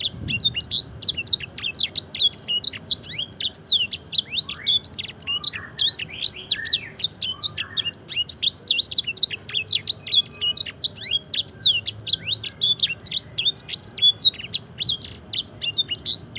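Canary singing a long, fast song with blackthroat-style phrases, a rapid unbroken run of high chirps and quick downward-sweeping notes. The song cuts off abruptly at the end.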